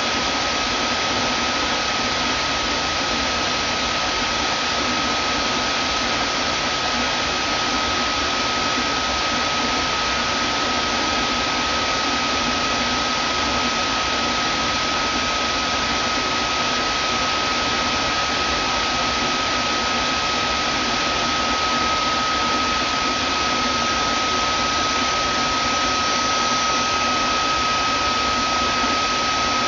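Vacuum cleaner running steadily: a constant rushing hiss with a steady high whine from its motor, unchanging throughout.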